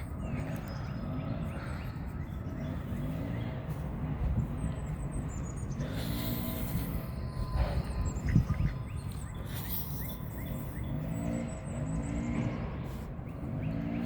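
Steady low outdoor rumble, with faint bird chirps now and then above it.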